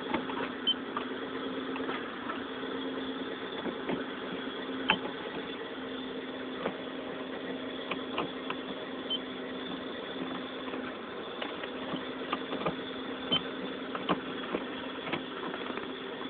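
Mitsubishi 3000GT's V6 engine idling steadily, with scattered light clicks and ticks over the hum.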